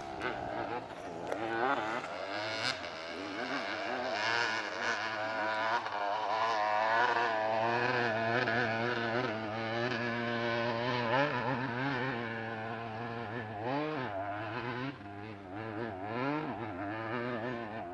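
Motocross motorcycle engine running hard, its pitch rising and falling repeatedly with the throttle, with a brief drop in revs a little before the end.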